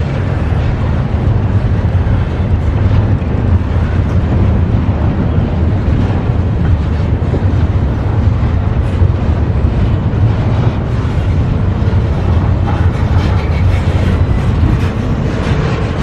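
CSX freight train rolling past: a steady, loud rumble of freight cars' wheels on the rails.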